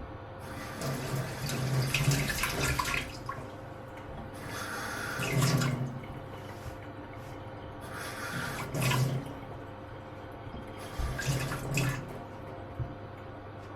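Kitchen sink tap running in four separate bursts of one to three seconds each, water splashing into the sink.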